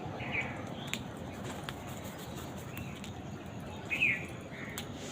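Birds chirping: two short calls, the second and louder one about four seconds in, over steady background noise, with a few sharp clicks in between.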